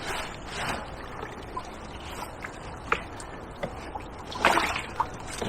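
River water splashing and trickling as a sunken motorcycle is heaved upright by its handlebars, with louder rushes of water near the start and about four and a half seconds in, and a few light knocks.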